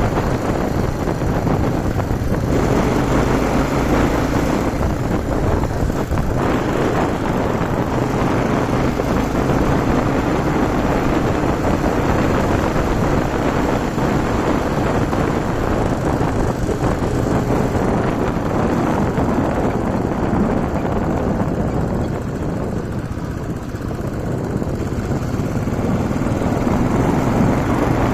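Yamaha TW-200's single-cylinder four-stroke engine running steadily while riding, mixed with wind rush over the microphone; the sound eases briefly past the two-thirds mark, then picks up again.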